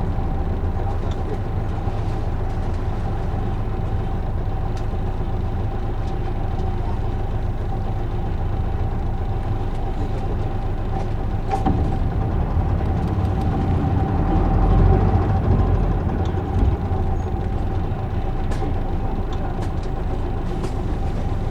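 Isuzu Erga PJ-LV234L1 city bus's diesel engine and drivetrain running steadily, heard from inside the cabin, with a constant thin whine over the low rumble. The low rumble swells briefly about two-thirds of the way through.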